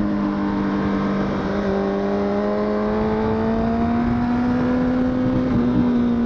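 Honda CBR1000RR (SC57) inline-four engine running at steady, high revs under way, with wind noise on the microphone. A second engine note rises slowly in pitch underneath for a few seconds.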